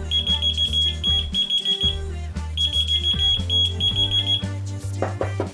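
Whistle-activated key-finder keychain's alarm beeping: rapid high-pitched beeps in two runs of about two seconds each with a short pause between, stopping about four and a half seconds in. Background music with a steady bass line plays underneath, turning to drum hits near the end.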